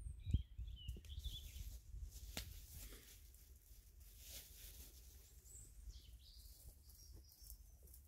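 Faint small-bird chirps, a few in the first second and a half and more near the end, over scattered light crackles and rustles and a low steady rumble.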